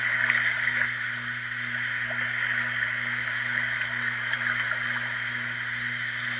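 Portable baby noise machine playing its recorded running-water sound, a steady babbling brook, through its small speaker, with a steady low hum underneath.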